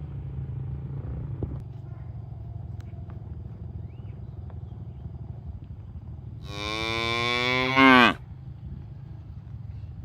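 A cow mooing: one long, loud call about six seconds in, dropping in pitch as it ends, over a steady low rumble.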